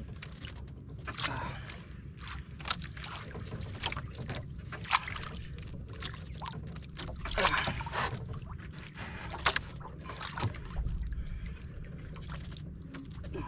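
Water lapping and splashing irregularly against the hull of a small boat over a steady low rumble.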